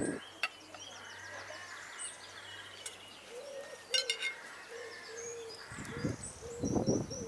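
Small birds chirping and calling, with crows cawing near the end.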